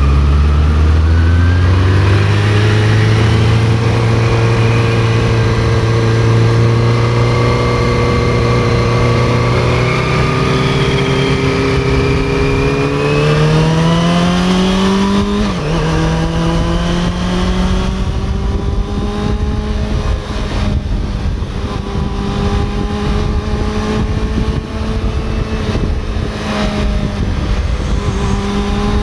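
Honda CB400SF's inline-four engine pulling as the motorcycle is ridden. Its pitch climbs, then drops sharply about halfway through as it shifts up a gear, and it runs at a steady pitch after that, with wind rush growing over it.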